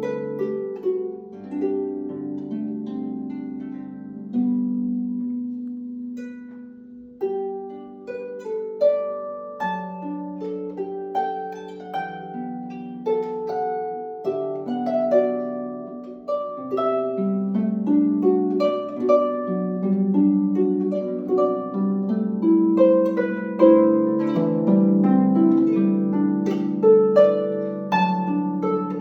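Harp playing, a plucked melody over lower ringing notes. The playing thins out and softens about six seconds in, then grows fuller and louder toward the end.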